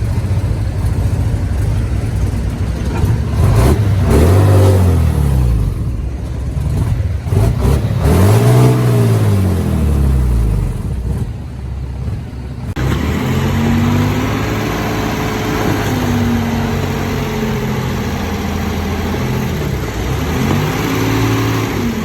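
Heavy earthmoving machine's diesel engine running, revving up and dropping back several times as it works under load.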